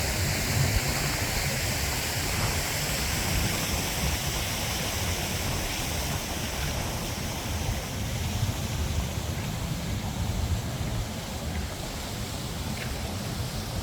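Steady rushing outdoor city noise with a low, fluctuating rumble underneath.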